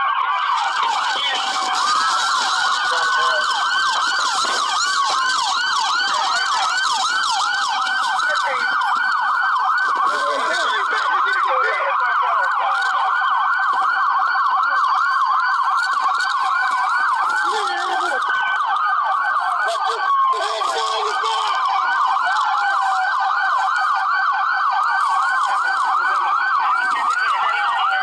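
Several police car sirens sounding together: fast, rapidly repeating yelps overlapped with slower wails that rise and fall, continuous and loud.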